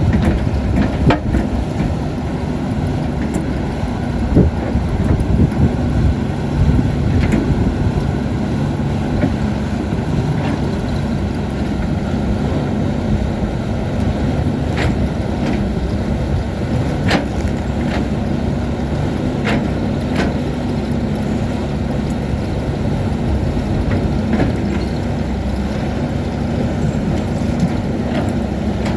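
CAT 320D excavator's diesel engine running steadily at working revs, with scattered sharp knocks and clicks, most of them in the first few seconds and again a little after the middle.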